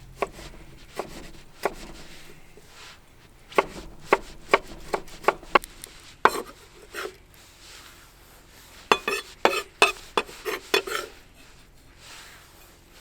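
Knife chopping on a wooden cutting board: a run of sharp, irregular knocks in two bursts with a few single strokes between.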